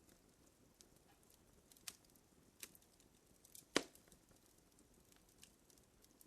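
Wood fire crackling faintly: scattered, irregular pops and snaps, with one louder pop a little before four seconds in.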